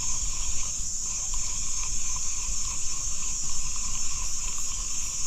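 Steady high-pitched drone of forest insects, over a low rumble.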